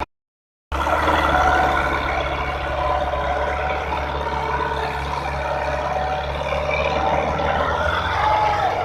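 Belarus 510 tractor diesel engines running hard under load in a tractor tug of war, a steady loud low hum that comes in abruptly just under a second in.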